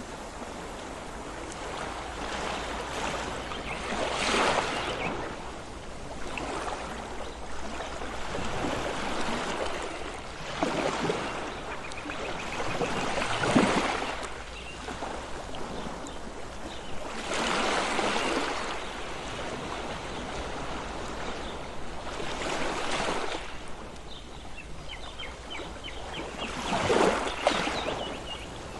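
Sea surf: about six waves break a few seconds apart, each one swelling up and fading back, over a steady wash of water.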